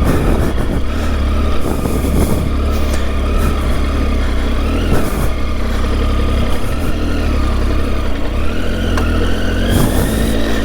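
Triumph Tiger 800's three-cylinder engine running off-road, its pitch wavering with the throttle and climbing over the last couple of seconds, over a heavy low rumble.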